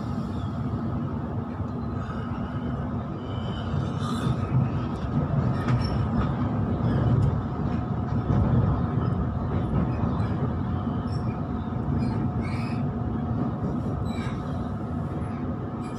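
Sydney Trains electric suburban train heard from inside the carriage while running: a steady low rumble of wheels on rails with a faint steady whine and scattered clicks. It grows louder for a few seconds in the middle.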